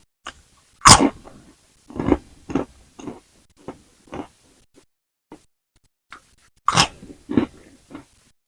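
Close-miked biting into crispy french fries: two loud crunches, about a second in and again near seven seconds, each followed by several softer chewing crunches that fade out.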